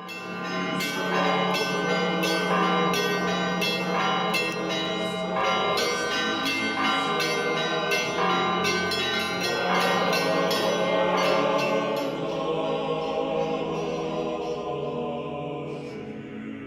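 Church bells ringing in quick repeated strikes, about three a second, over a steady low hum, dying away over the last few seconds.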